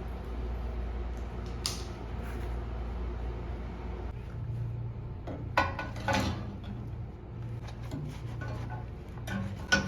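Household clatter: a few sharp knocks and clinks, like dishes or glassware being handled, over a low steady hum that stops about four seconds in. The clinks bunch together near the end.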